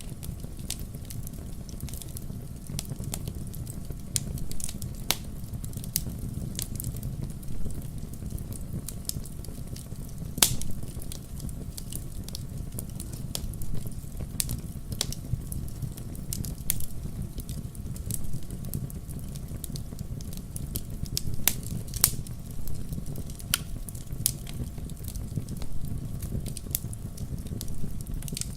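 Fireplace fire crackling, with irregular sharp pops and snaps over a steady low rumble; a couple of louder pops stand out, about a third of the way in and again past the three-quarter mark.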